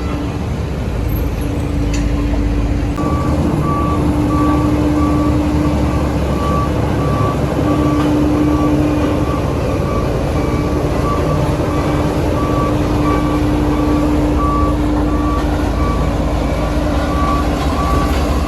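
Heavy diesel construction machine running steadily. About three seconds in, its reversing alarm starts beeping about twice a second as it backs up.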